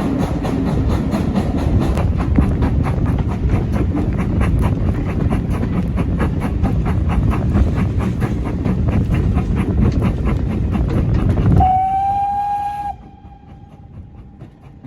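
A train running close by with a loud rumble and a fast, regular clatter. Near the end a locomotive whistle sounds one steady note, loud at first and then fainter as the rumble falls away.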